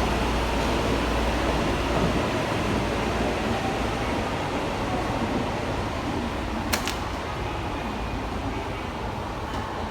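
Steady noise of an underground subway platform, with train and ventilation noise slowly fading; one short sharp click about two-thirds of the way through.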